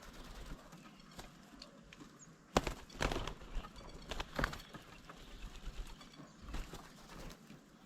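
Birds at a bird table making a burst of sharp taps and knocks, about two and a half to five seconds in.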